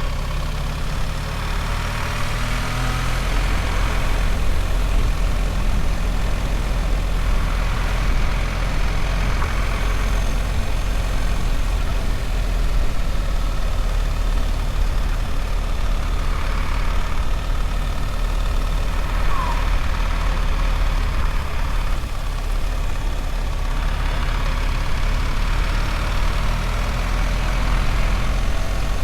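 BMW R1300 GS motorcycle's boxer-twin engine running steadily under way, its pitch shifting a little with the revs, over wind and road noise.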